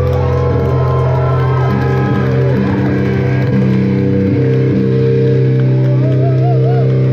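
Live rock band's electric guitar and bass holding long sustained notes with wavering pitch bends, without drums.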